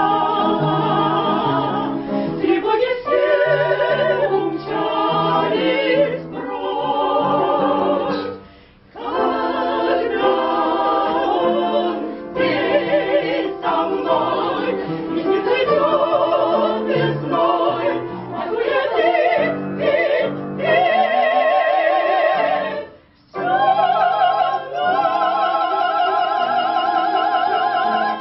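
Operatic, classically trained singing with wide vibrato, breaking off briefly twice.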